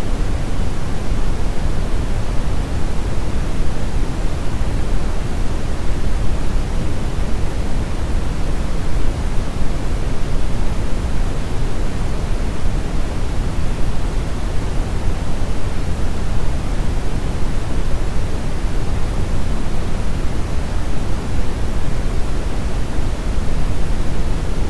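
Brown noise: a steady, even rushing hiss, heaviest in the deep low end and rolling off toward the treble, with no change in level.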